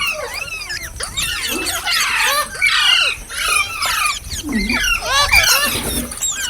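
Ringneck parrot giving a rapid run of squealing, chattering calls: quick whistled chirps sweeping up and down in pitch, one after another without a pause.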